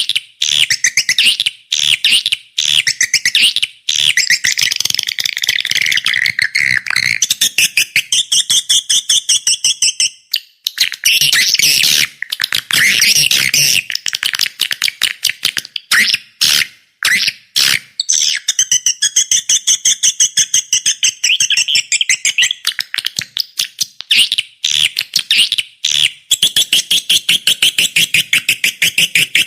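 Swiftlet lure call recording: dense, rapid, high-pitched chirping and twittering in fast trains of clicks, broken by a couple of brief gaps. This is the 'calling' sound played in swiftlet nest houses to attract the birds.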